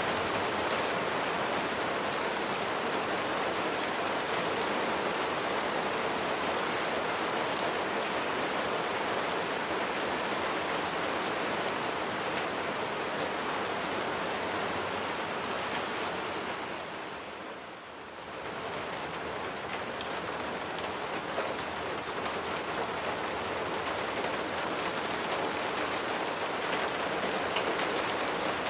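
Steady rain, a dense patter of raindrops falling on a surface. About two-thirds of the way in it briefly fades down and comes back up to the same steady rain.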